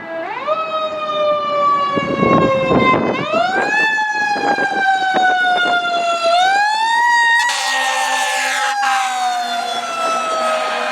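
Fire engine siren wailing as the truck responds. Its pitch rises quickly and then slides slowly down, three times over about ten seconds.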